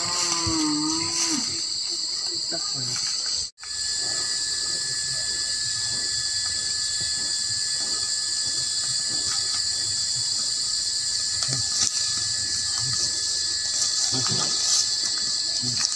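A steady, high-pitched chorus of insects, such as crickets or cicadas, in woodland. A long wavering voice-like call sounds over it in the first second and a half, and the sound cuts out briefly about three and a half seconds in.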